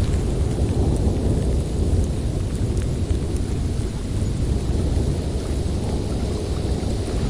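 Snowstorm wind blowing steadily, a constant deep rushing noise with no gusts standing out.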